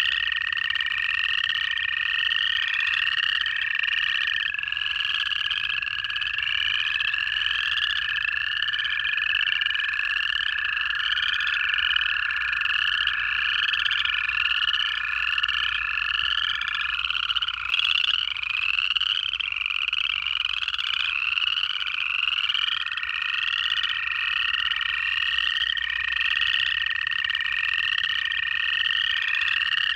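Dense frog chorus of upland chorus frogs, their rising trills overlapping and repeating about twice a second. Long, steady American toad trills run beneath them: one stops a little past halfway, and another begins about two-thirds of the way in.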